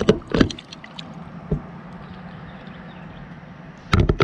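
A few knocks and bumps in a jon boat, with a cluster of sharper knocks near the end, over a steady low hum.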